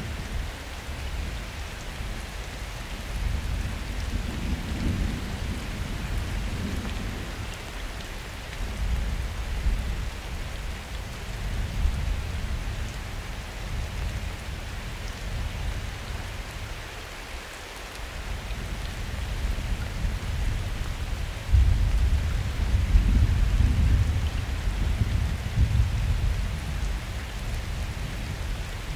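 Steady rain hissing during a summer thunderstorm, with thunder rumbling low underneath in slow swells. The loudest roll of thunder comes on suddenly about two-thirds of the way through and rumbles on for several seconds.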